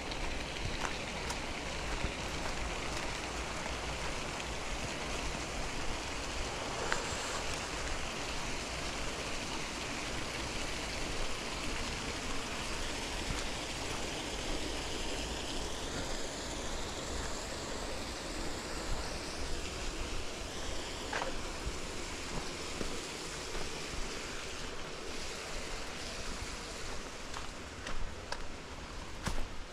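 Steady rushing of flowing water, an even noise with a few faint clicks.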